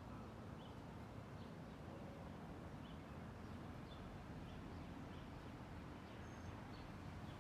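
Faint, scattered short bird chirps, a dozen or so spread irregularly, over a steady low outdoor background hum.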